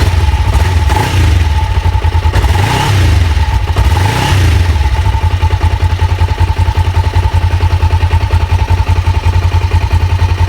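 Kawasaki Ninja EX500's parallel-twin engine running at idle, revved up briefly three times in the first five seconds and then settling back to a steady idle. Raising the revs brings the charging voltage to about 14 V, a sign that the stator is charging properly.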